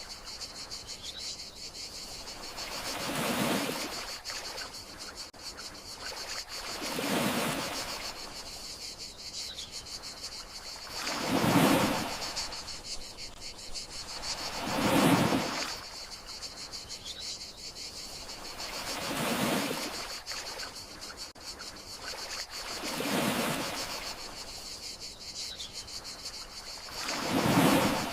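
Gentle sea waves breaking and washing ashore about every four seconds, seven swells in all, over the steady high chirring of crickets.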